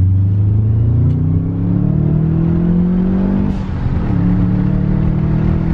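Car engine accelerating, its note climbing steadily for about three seconds, then dropping suddenly as it changes gear and pulling on at a steady pitch.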